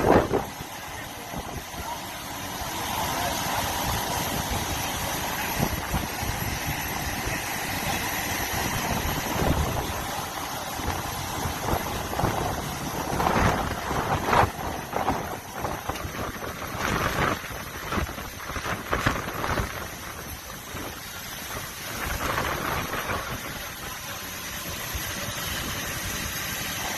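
Vehicle engine idling steadily, with a cluster of irregular louder short sounds in the middle.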